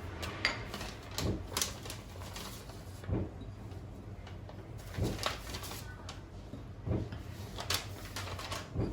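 Scattered light knocks and clicks, about one every second, irregularly spaced, over a faint steady room background.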